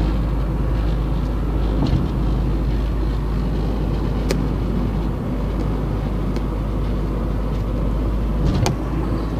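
Car driving along: steady engine and road rumble with tyre noise, broken by a few sharp knocks.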